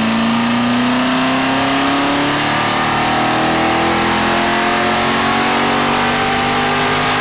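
Corvette Z06 V8 under sustained acceleration, its engine note climbing slowly and steadily in pitch through one long pull in a gear.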